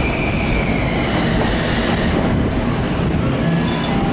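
Long Island Rail Road M9 electric multiple-unit train moving along the platform, a loud steady rumble of wheels and cars with a high whine that drifts slightly lower in pitch over the first couple of seconds.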